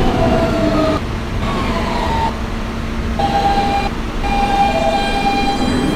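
Inside a Kawasaki R160B subway car at a station stop: a steady low hum and rumble, with sustained whistle-like tones that start and stop several times, one falling slightly in pitch.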